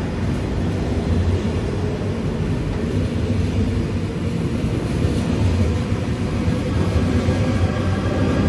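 Train at a station platform, a loud, steady low rumble that grows slightly louder near the end.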